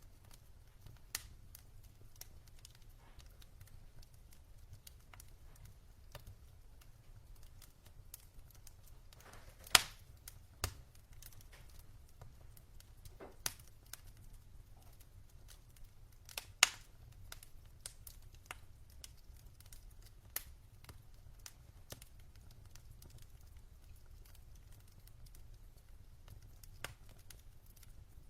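Burning logs in a fireplace crackling: scattered sharp pops and snaps over a faint low rumble, with the two loudest pops about ten and sixteen seconds in.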